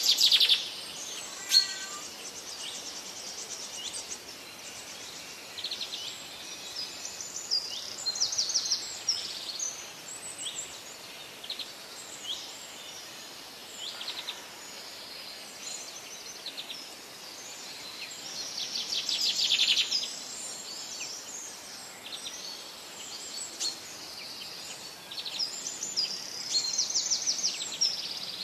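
Wild birds chirping and trilling, short calls and quick rattling trills coming one after another, over a steady faint outdoor hiss. A sharp tick sounds about a second and a half in.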